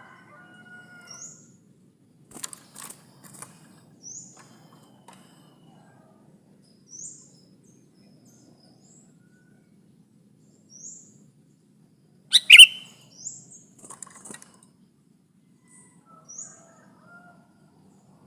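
Sooty-headed bulbul (kutilang) calls: short, high chirps repeating every second or two, with one loud, sharp call about twelve seconds in.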